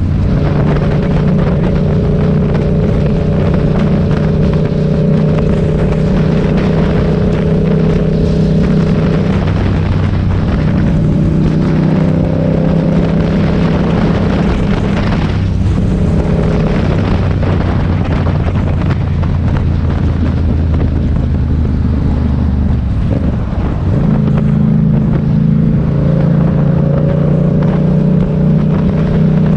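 Motorcycle engine running while riding, with wind rushing over the microphone. The engine note shifts pitch a few times, drops briefly about three quarters of the way through, then picks up again.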